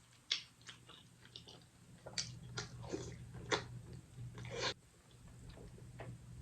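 Close-up eating sounds: chewing and wet mouth smacks with a few crisper clicks, irregular. They come thickest and loudest from about two seconds in until nearly five seconds, then fall away to softer chewing.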